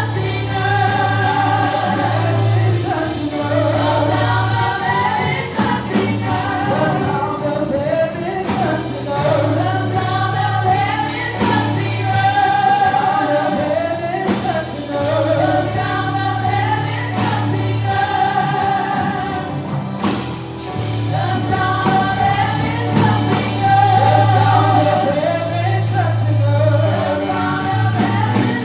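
Gospel choir singing with a live band, over a steady drumbeat and sustained bass notes.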